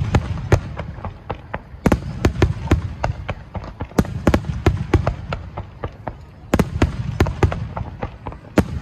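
Finale barrage of aerial firework shells bursting in rapid succession: sharp cracks and booms over a continuous low rumble, coming in dense clusters about every two seconds.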